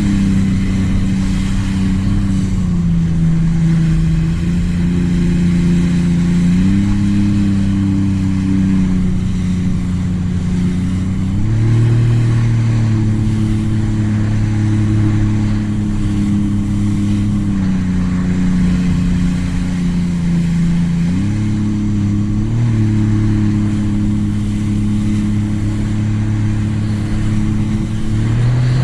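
Sea-Doo RXT-X 300 personal watercraft engine running at cruising speed, its note stepping up and down in pitch several times as the throttle changes, with a steady hiss of wind and water over it.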